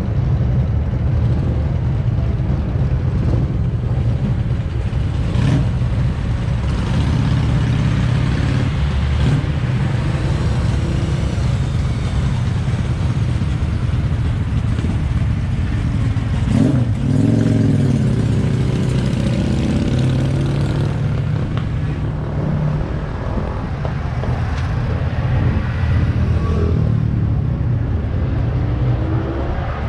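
Ride on a towed tram car: the tow vehicle's engine runs steadily under road noise. About halfway through, another engine briefly revs up and falls away over it.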